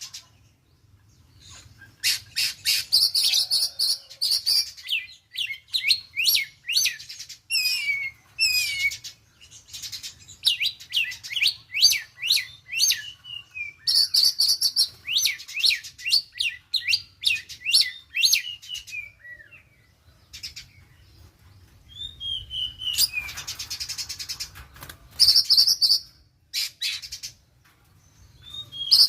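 Young oriental magpie-robin singing loud, varied phrases of quick sweeping whistles and rapid buzzy rattles, with short pauses between phrases. The song is a young bird practising the crackling 'konslet' style.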